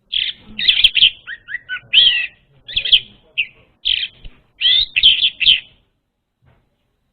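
Orange-headed thrush singing: a quick run of varied whistled and chattering notes for about five and a half seconds, then a pause.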